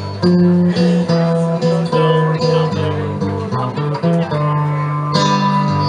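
Live blues played on guitars over a low bass line: an instrumental phrase between sung lines, with no vocals.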